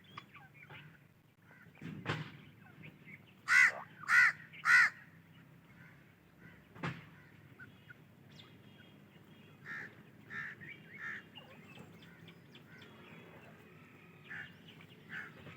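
Grey francolin chicks calling: three loud, arched calls in quick succession about four seconds in, then softer scattered calls later on, with a few sharp clicks among them.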